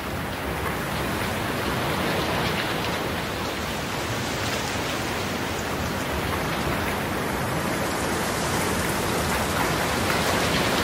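Steady rain falling: an even, continuous hiss with faint scattered drop ticks, growing slightly louder.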